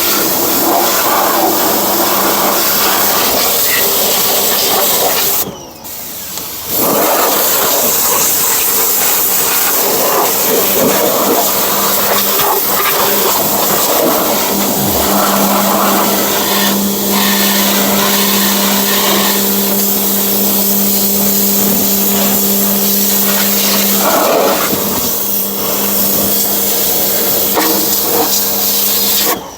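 Small pressure washer running and spraying: a steady hissing water jet over a steady motor hum. It cuts out briefly about five and a half seconds in and again near the end, as the trigger is let go.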